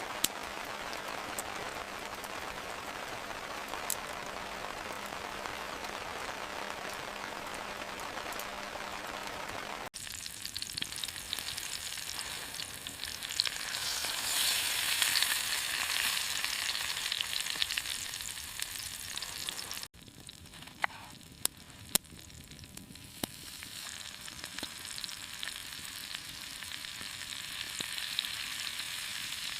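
Steady crackling hiss, with no pitched sound in it, in three cut-together stretches. The middle stretch is louder and brighter, and a few sharp pops stand out in the last.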